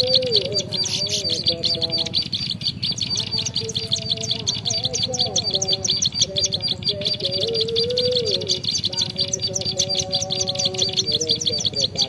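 Small birds chirping in a fast, even series of high chirps that keeps up without a break, with a lower, sliding, tune-like sound underneath.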